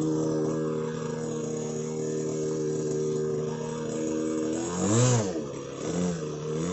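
OS 46 two-stroke glow (nitro) engine of a radio-controlled model plane in flight, a steady high-pitched drone. About five seconds in it gets loudest as the plane passes close, and the pitch swoops up and down. Smaller pitch swings follow as it flies on.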